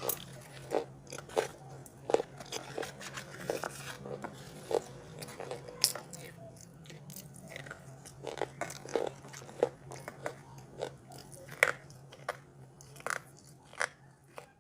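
Close-up biting and chewing of large chunks of chalk and clay: irregular sharp crunches, about one or two a second, with softer chewing between them.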